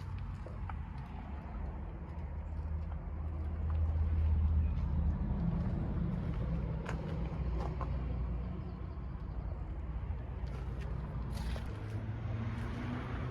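A low, steady engine rumble that swells about four seconds in, with a few light clicks over it.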